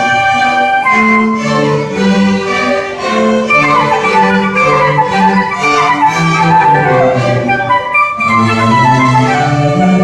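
Youth orchestra playing classical music, with bowed strings to the fore: violins above a moving low cello line.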